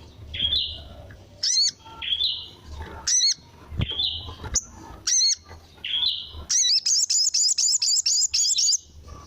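Sogon (ruby-cheeked sunbird) calling: sharp, high, looping notes repeated about once a second, each paired with a shorter falling note. After about six and a half seconds it breaks into a fast run of about ten notes.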